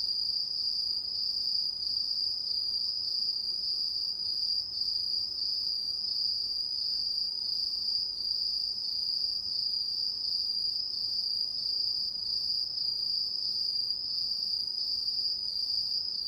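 Autumn crickets trilling in a steady, unbroken high-pitched chorus with a slight pulse.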